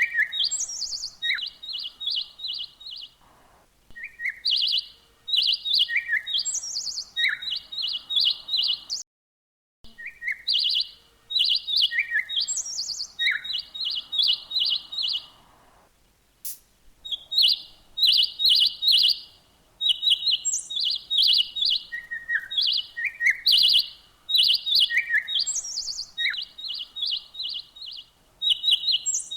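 A songbird singing: repeated phrases of quick chirps strung together, each phrase with a few short down-slurred notes, coming every second or two. The song breaks off for about a second around a third of the way in.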